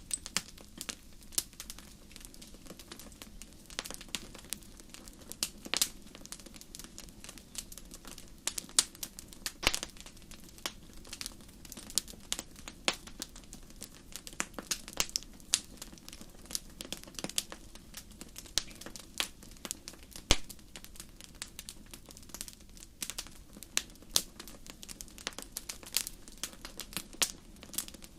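Wood fire burning in a fireplace: a steady low hiss with irregular crackles and sharp pops several times a second, a few pops standing out louder.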